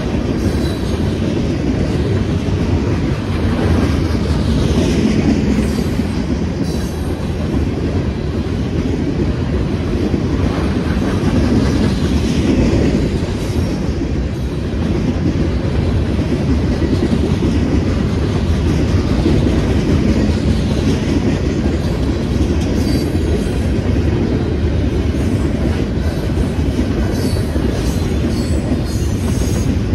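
Train cars rolling past at close range: a steady heavy rumble with the clickety-clack of wheels over rail joints, and faint high squeals falling in pitch now and then.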